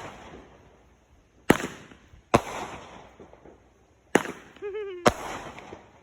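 Aerial fireworks exploding: four sharp bangs, each trailing off in crackle, with a short wavering pitched cry just before the last one.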